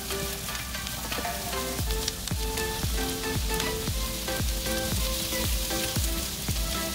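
Sliced onions and red and green bell peppers sizzling as they sauté in a frying pan, stirred now and then with a spatula. Background music with a steady beat comes in about two seconds in.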